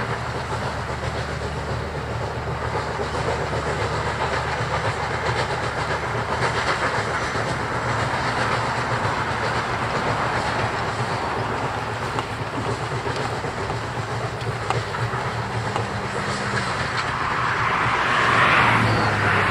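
Narrow-gauge train rolling along the track, wheels clicking over the rail joints, with a steady low hum beneath. A louder rush of noise swells near the end.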